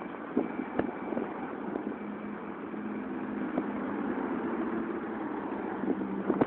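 Wind blowing on the microphone, a steady rush with a faint low hum under it and a single short knock about a second in.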